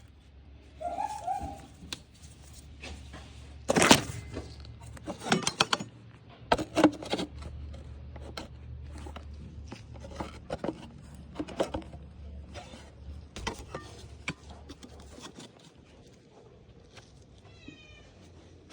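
Hand work in a truck's engine bay: irregular clicks and knocks of plastic connectors, clips and hoses being worked loose, the loudest knock about four seconds in, over a low steady hum.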